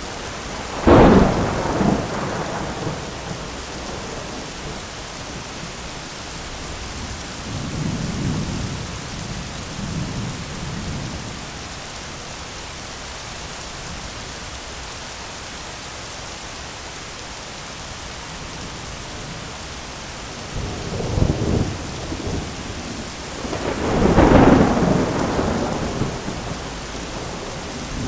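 Thunderstorm: steady rain hiss with thunder, a sharp loud clap about a second in, fainter rumbles a few seconds later, and two more peals near the end, the last as loud as the first.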